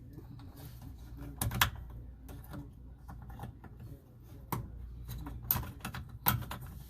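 Scattered sharp clicks and light knocks of hands and parts being handled on a washing machine's drain-pump wiring, over a faint low hum.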